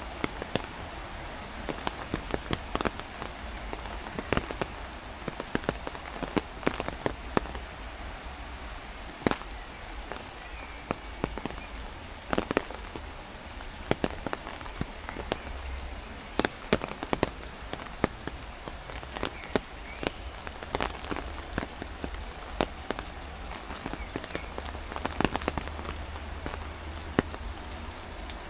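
Heavy rain: a steady hiss of downpour with frequent loud, irregular drops striking close by.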